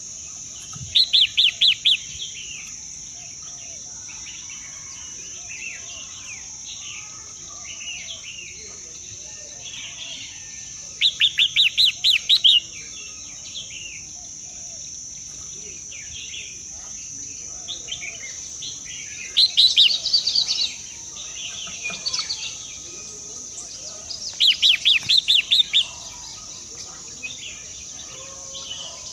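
Birdsong: a bird repeats a short, loud burst of rapid high notes every several seconds, with softer chirps and calls in between, over a steady high-pitched drone.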